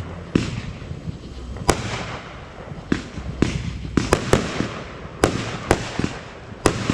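Fireworks going off: about nine sharp bangs at irregular intervals, some close together, each trailing off briefly, over a continuous crackle.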